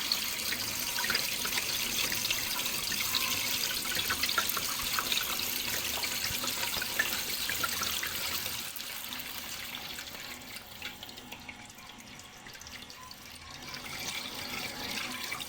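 Water running and splashing, a steady hiss full of small droplet and plashing sounds; it grows softer past the middle and swells again near the end.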